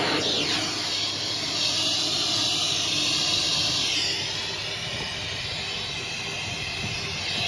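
Numatic Hetty cylinder vacuum cleaner running, air rushing through the hose and metal wand with a steady hiss and motor whine; the pitch of the rush changes about four seconds in.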